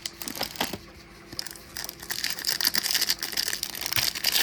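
Plastic wrapper of a trading-card pack being torn open and crinkled, starting about a second and a half in and going on as a dense crackle. A few light clicks of cards being handled come before it.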